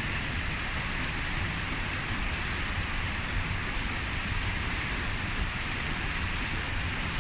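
Steady rush of falling water from a mountain waterfall or fast stream, an even hiss over a low rumble.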